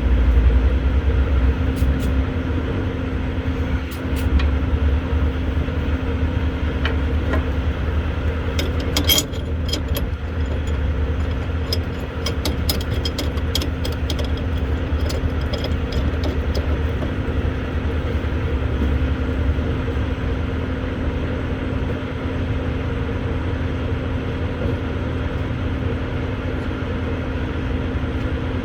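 A vehicle engine idling steadily with a low hum, with sharp metallic clicks and taps about nine seconds in and again a few seconds later.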